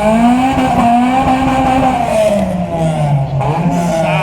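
Car engine held at high revs during a burnout, its tyres spinning on the tarmac. The revs ease back a little about two seconds in and hold there.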